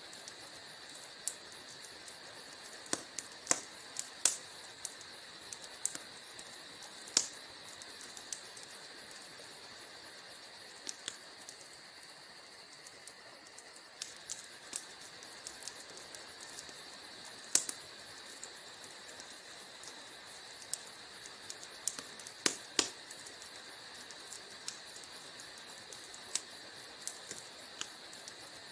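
Wood fire burning in a fireplace: a steady soft hiss with irregular sharp crackles and pops, a handful of them much louder than the rest.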